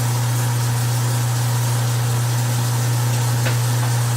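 Newly installed garbage disposal motor running with a steady hum. It will not switch off because its plug is in the always-powered outlet instead of the switched one.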